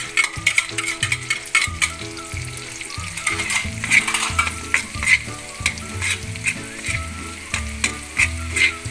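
Minced garlic sizzling in melted butter in a metal wok as it is stirred. A spatula scrapes and taps against the pan many times.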